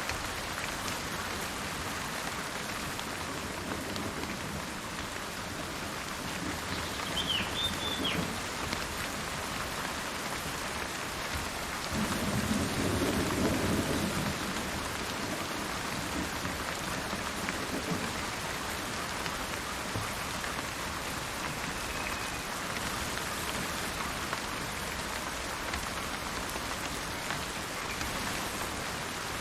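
Steady rain falling, with a low roll of thunder swelling about twelve seconds in and fading after a couple of seconds, and fainter rumbles around it. A bird gives a brief call a few seconds before the thunder.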